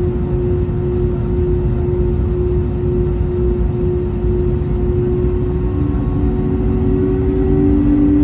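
Airbus A321neo's jet engines running, a heavy low rumble under a steady hum; a second, slightly lower hum joins about halfway through and creeps up in pitch.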